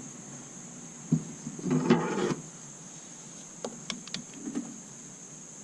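Plastic wiring harness and its connectors being handled and pulled loose: a sharp click about a second in, then about a second of scraping and rattling (the loudest part), followed by a few lighter clicks and knocks.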